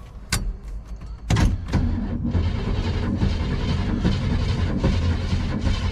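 1973 Chevy C20 pickup's starter cranking the engine over, its first turn after about ten years of sitting: a click, then a second or so later the steady rhythmic churn of cranking. The engine turns over without firing, being starved of fuel.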